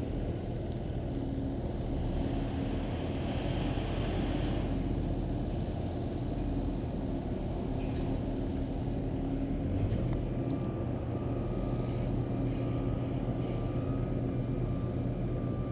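Pickup truck running, heard from inside the cab as a steady low engine rumble. A steady hum with a higher whine joins about ten seconds in.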